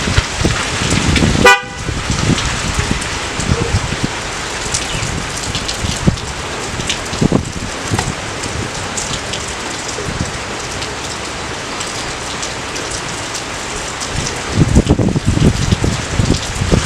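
Steady rain falling, an even hiss dotted with individual drop ticks. About a second and a half in there is a brief honk-like tonal blip with a short dip in the rain, and heavier, lower spatters come near the end.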